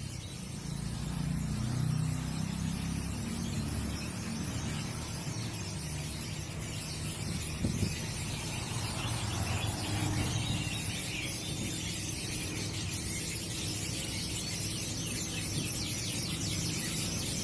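Many small caged songbirds chirping together in a dense, high-pitched chatter, over a steady low rumble.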